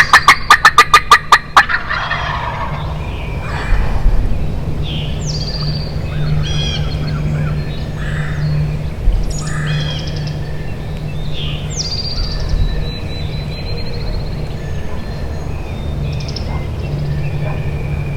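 A wild turkey gobbles loudly at the start: a rapid rattling run of about a dozen notes lasting under two seconds. After that, a songbird repeats a short descending whistled phrase every few seconds over a steady low hum.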